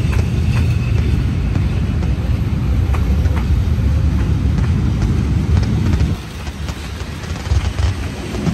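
Train hauled by a D19E diesel-electric locomotive rolling past close by: a steady heavy rumble of wheels on rails with scattered clicks. The rumble dips a little after six seconds, then builds again near the end.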